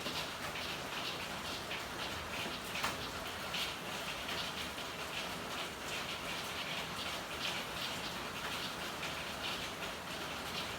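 Steady rain falling in an alley, a dense patter of drops on hard surfaces with one sharper drip about three seconds in.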